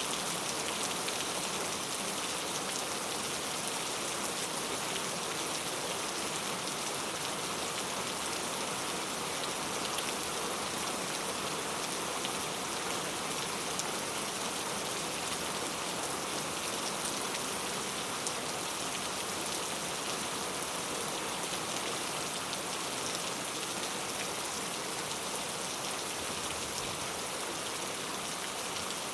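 Heavy rain falling steadily, a dense even hiss of drops striking hard street surfaces.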